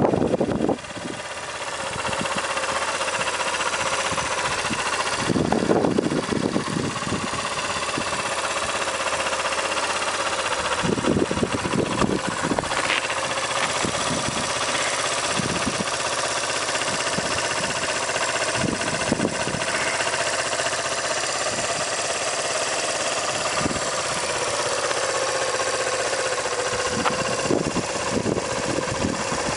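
The single-cylinder four-stroke engine of a 2003 Suzuki RV125 Van Van motorbike idling steadily, with louder low rumbles near the start and about six seconds in.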